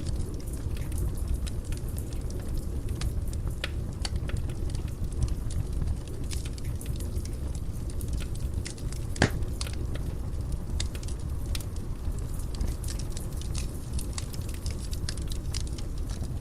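Fire burning in a fireplace: a steady low rumble of flames with scattered crackles and snaps throughout, and one louder pop about nine seconds in.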